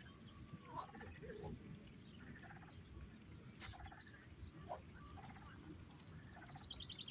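Birds calling, faint: many short calls scattered through, with a quick high trill near the end.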